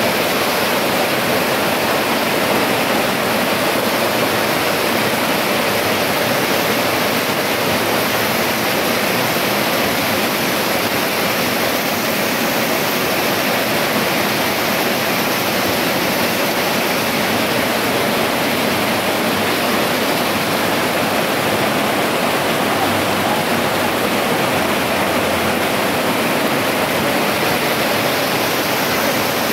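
Heavy rain pouring steadily onto a flooded street: a loud, even hiss of drops splashing into standing water that does not let up.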